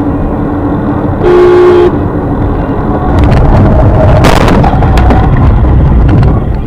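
Car traffic heard from inside a car, with a short car horn blast about a second in. From about three seconds in the noise grows louder, with clicks and knocks and a sudden loud burst around four seconds in.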